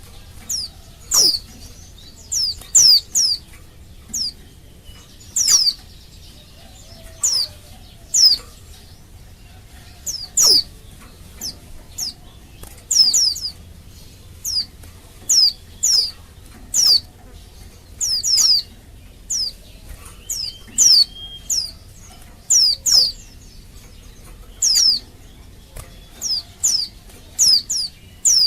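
Female white-eye (pleci) calling: short, high, downward-slurred call notes, often in quick pairs or threes, repeated about once a second. This is the female's contact call, used as a lure to set male white-eyes answering and singing.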